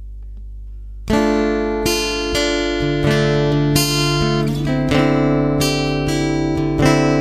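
Guitar playing an intro of plucked chords, coming in about a second in over a steady low hum.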